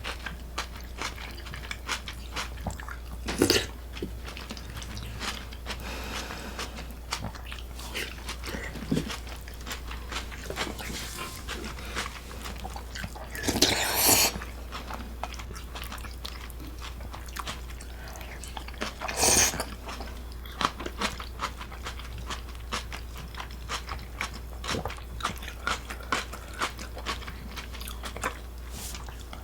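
Close-miked eating: a person biting and chewing food with many small wet clicks and crunches. There are a few louder bursts, one about three seconds in, the longest around the middle, and another a few seconds later.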